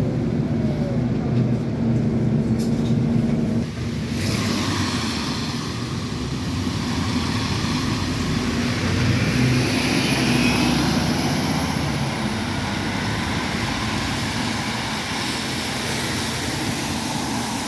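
Scania N230UD double-decker bus engine running steadily, heard from on board while the bus is under way. About four seconds in, a louder hiss joins the engine hum and stays.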